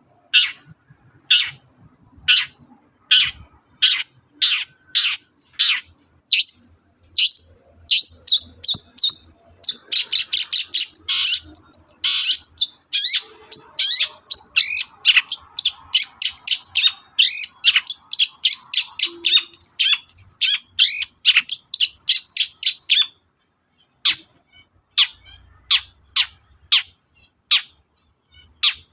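Long-tailed shrike (cendet) singing loudly: sharp, evenly spaced high calls about two a second, then a fast, dense chattering song lasting over ten seconds from about nine seconds in, and after a short pause near the end, the sharp repeated calls again.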